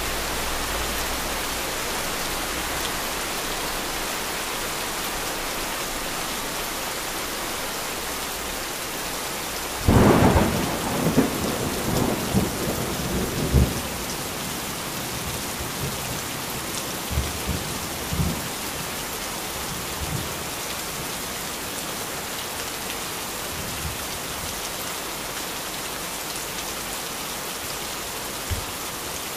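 Heavy rain falling in a steady hiss. A sudden loud thunderclap breaks about a third of the way in and rumbles on for a few seconds, with fainter rolls of thunder later.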